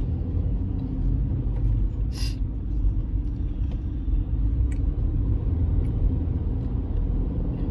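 Steady low rumble of a car's road and engine noise heard from inside the cabin while it is under way. There is a brief hiss about two seconds in.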